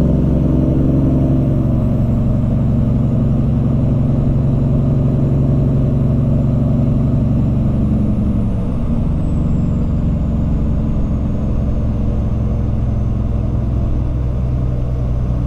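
Cummins ISX diesel engine of a Peterbilt 379 semi truck running steadily under way. Its pitch drops about eight seconds in, then holds steady at the lower note.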